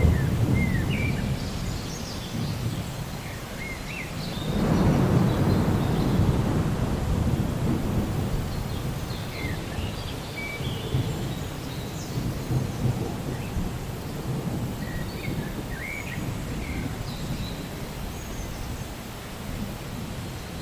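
Steady rain with rolling thunder: a deep rumble swells about four and a half seconds in and dies away slowly over the following seconds.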